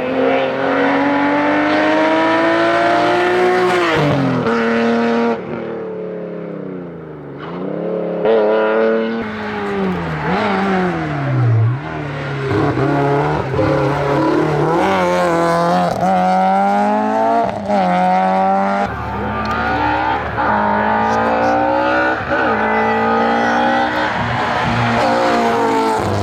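Race car engine at full throttle, revving up through the gears with a drop in pitch at each upshift. Twice, near the middle, the pitch falls steeply as it brakes and downshifts for a corner, then it climbs hard again.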